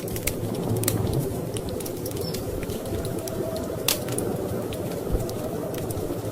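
Wood fire crackling in a fireplace, with irregular sharp pops and one louder pop about four seconds in, over a steady low rumble of storm wind.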